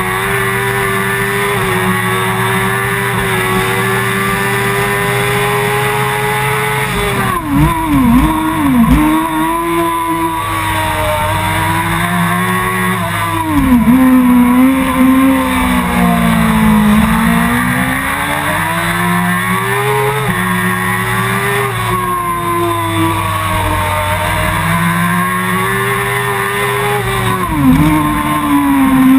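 Suzuki GSX-R 1000's inline-four engine at high revs on a fast track lap, heard from on board: held high and slowly climbing, then the revs drop in quick steps about seven seconds in and again near the end as the gears go down, and climb back up through the gears in between.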